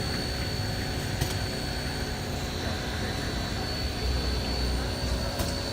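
Steady hissing rush from a steam locomotive, with a steady high-pitched whine over it; a low rumble grows louder about four seconds in.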